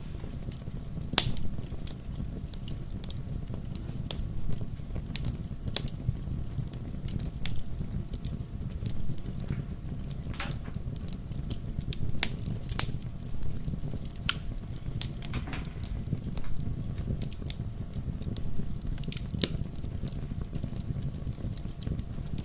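Wood fire crackling in a fireplace: irregular sharp pops and snaps over a steady low rumble, with the loudest pop about a second in.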